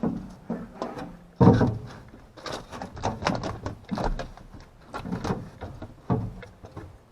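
Irregular knocks, clicks and clatters, the loudest about a second and a half in.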